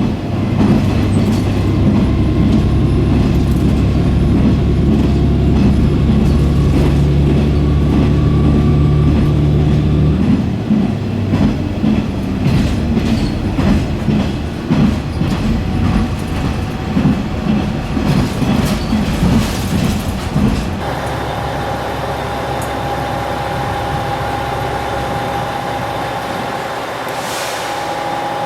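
Passenger train running: a steady low rumble at first, then from about ten seconds in the rhythmic clatter of wheels over rail joints. After about twenty seconds it settles into a quieter steady hum with a thin steady whine.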